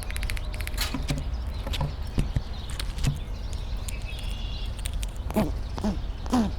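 A few light scattered clicks, then from about five seconds in an animal calling repeatedly, each harsh call falling in pitch, about two a second.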